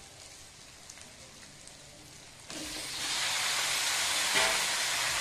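Raw chicken pieces going into hot browned masala in a kadhai: a faint low sizzle, then about two and a half seconds in a loud, steady sizzle starts as the chicken hits the hot oil.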